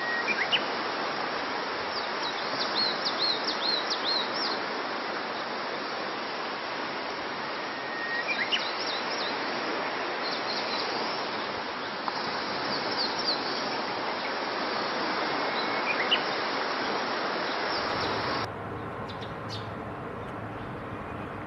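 Yellowhammer calling: several short runs of rapidly repeated high notes and a few brief rising calls, over a steady hiss of background noise. About 18.5 s in, the hiss drops away to a quieter recording with a few faint clicks.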